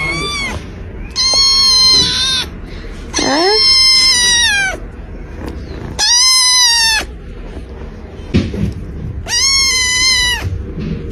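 Fluffy long-haired kitten meowing loudly and insistently: about five long, high-pitched meows of roughly a second each, with short pauses between.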